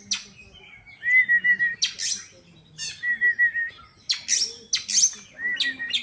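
Oriental magpie-robin (kacer) singing in repeated phrases, roughly one a second. Each phrase is a quick run of four or five even notes followed by sharp, very high notes.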